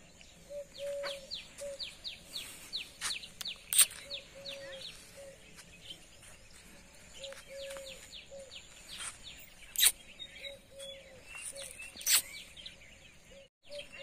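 Birds chirping in quick runs of short falling chirps, over a lower, shorter call repeated in little groups of two or three. A few sharp clicks or knocks stand out, the loudest about four seconds in, near ten seconds and near twelve seconds.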